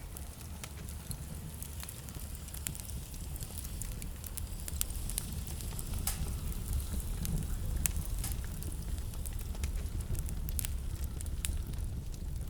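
Wood fire burning in a fireplace, with irregular sharp crackles and pops over a low, steady rumble.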